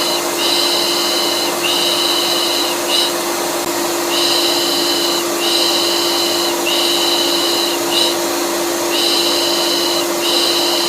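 Electric vacuum cleaner running steadily, with a rhythmic 'pış pış' shushing laid over it in repeating groups of about three long strokes and a short one, a white-noise loop for soothing colicky babies.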